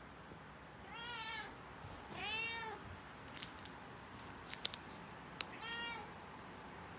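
Domestic cat meowing three times, each call rising and falling in pitch, with a few sharp clicks between the second and third meow.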